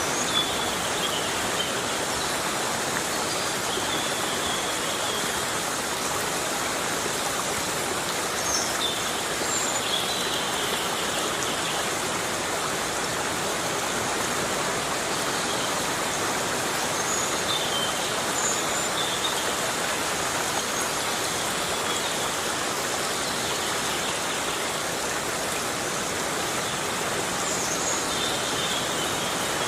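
Heavy rain falling in a forest: a steady, even hiss, with faint short high chirps now and then.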